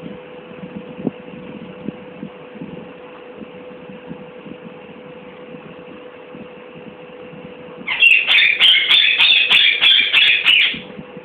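A parrot gives a loud, harsh, rapidly pulsing squawk lasting about three seconds, starting about eight seconds in. Before it there is only a low steady hum.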